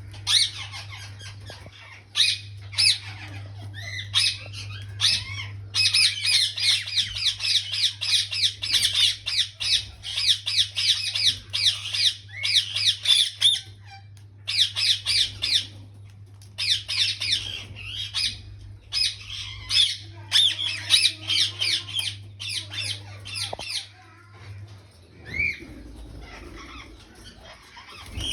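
Alexandrine and ringneck parakeets calling in fast runs of harsh, chattering squawks, with short pauses between bursts. A low steady hum lies beneath and stops near the end.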